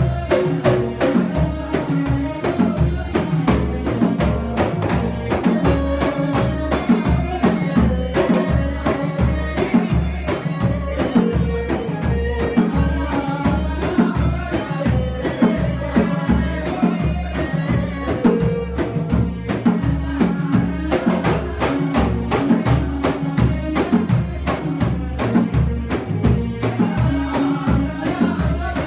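Samri, Gulf folk music: frame drums beating a steady, even rhythm under a group of men singing in unison.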